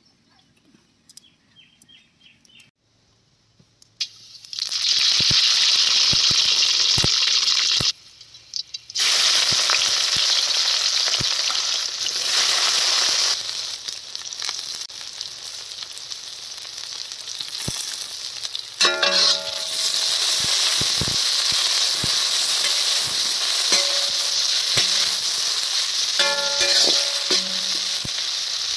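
Food frying in hot oil in a cooking pan. A loud, steady sizzle starts about four seconds in after a few light clinks, drops out briefly, then runs on with occasional knocks of the stirring utensil.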